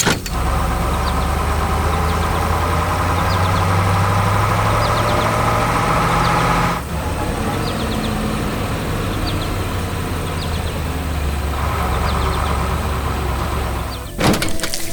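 Heavy construction vehicle's engine running steadily, with a short break about seven seconds in before it carries on.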